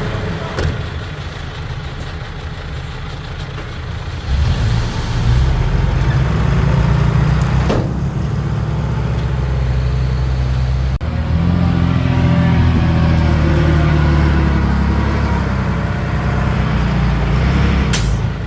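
Heavy diesel engine of earthmoving machinery working, a low steady drone that grows louder about four seconds in as it takes on load. A few short metallic clanks sound over it.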